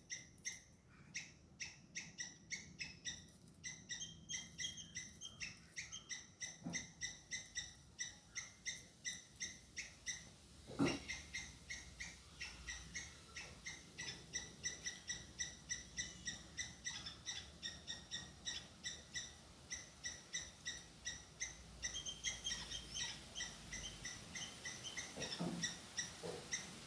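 Squirrel alarm calls: a fast, steady run of sharp chirps, about three or four a second, scolding a cat. A single louder low thump sounds about eleven seconds in.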